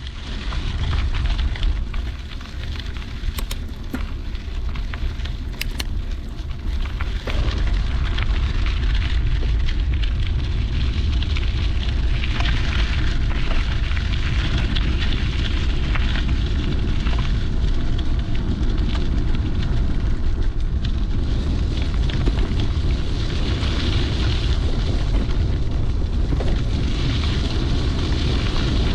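Wind buffeting a GoPro's microphone on a moving mountain bike, a steady low rumble mixed with the noise of the tyres rolling over the trail; it gets louder and steadier about seven seconds in.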